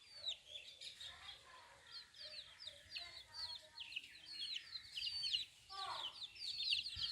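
A brood of chicks peeping: a steady stream of short, high chirps, each sliding downward in pitch. A few lower calls are mixed in, with a louder downward-sliding call about six seconds in.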